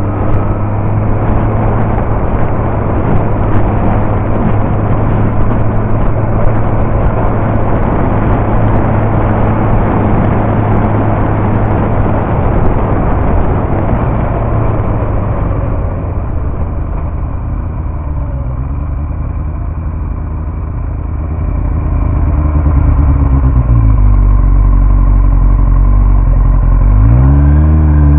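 Yamaha R1 inline-four sport-bike engine running under way, with a heavy rush of wind over the bike-mounted microphone. About sixteen seconds in the wind noise drops off, leaving the engine note clearer. Near the end the revs rise and fall twice.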